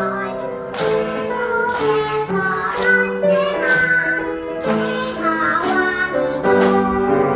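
A young child singing a song with instrumental accompaniment.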